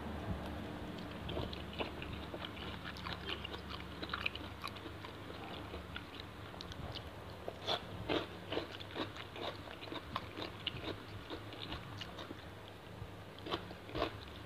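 A person chewing raw shrimp in fish sauce, soaked in soda to make it crisp: irregular wet, crunchy clicks of chewing, coming thicker in the second half.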